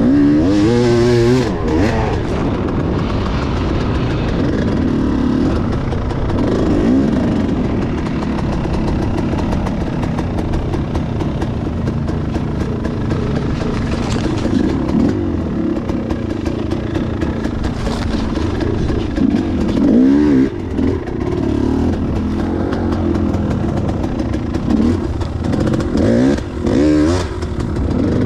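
Enduro motorcycle engine running continuously, revving up and down several times as the throttle is worked.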